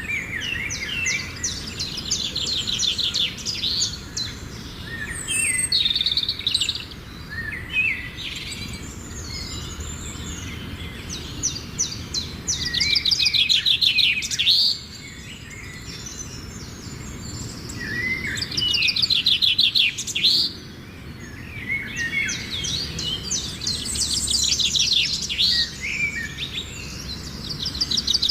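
Songbirds singing: phrases of rapid, high trills and chirps with pauses of a few seconds between them, over faint low background noise.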